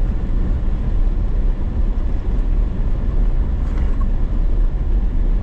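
Four-wheel-drive vehicle's engine and drivetrain running steadily, a constant low rumble, while it drives through deep snow on tyres aired down to about 4 psi.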